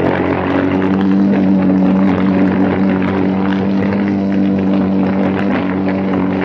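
Briggs & Stratton Animal single-cylinder four-stroke kart engine running hard at a near-steady high rev.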